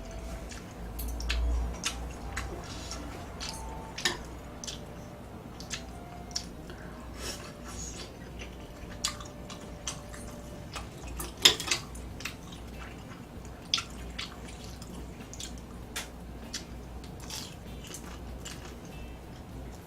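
A person eating close to the microphone: wet chewing and biting with scattered sharp clicks, the loudest about eleven and a half seconds in.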